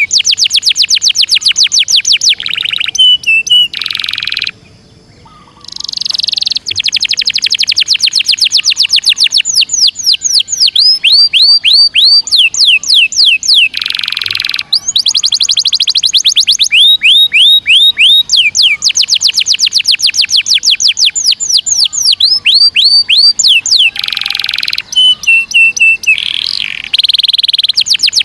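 Domestic canary singing a loud, continuous song of rapid rolls: long trills of quickly repeated down-sweeping notes, changing from one roll type to the next, with a brief pause about five seconds in.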